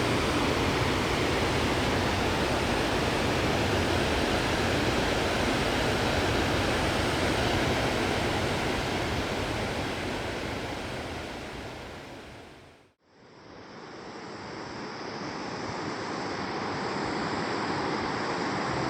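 Steady roar of rushing water, like a fast mountain river or waterfall. It fades out about thirteen seconds in, and a second, duller stretch of rushing water fades back in.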